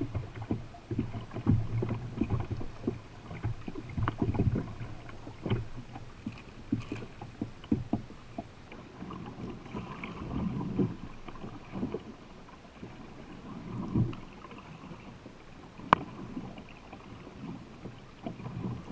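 Canoe being paddled on a river: irregular paddle splashes and knocks on the hull, with one sharp knock about 16 seconds in.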